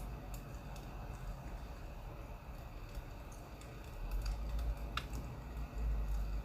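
Burning firewood crackling: scattered small snaps and pops at irregular times, one a little sharper about five seconds in, over a low steady rumble.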